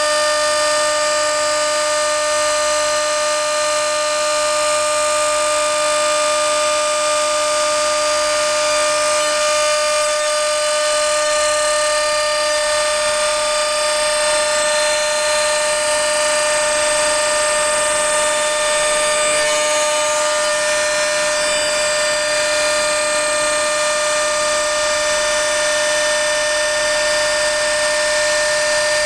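CNC router spindle running at a steady high speed, a constant high-pitched whine, while cutting an acrylic sheet.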